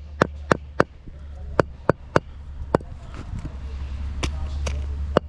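About ten sharp, ringing knocks at uneven intervals, quick at first and then more spread out, over a steady low hum.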